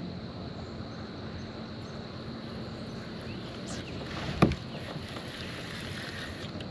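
Steady wind and water noise around a kayak, with one sharp knock about four and a half seconds in.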